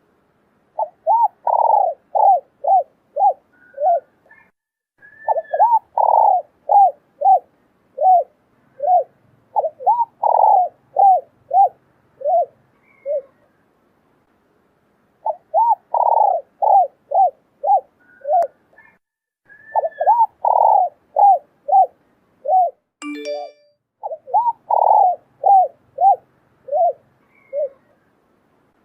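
Female spotted dove cooing: repeated phrases of short, arched coo notes, each phrase opening with a longer note and running into quicker, fading notes. This is the hen's call that excites and draws cock doves. A sharp click sounds about two-thirds of the way through.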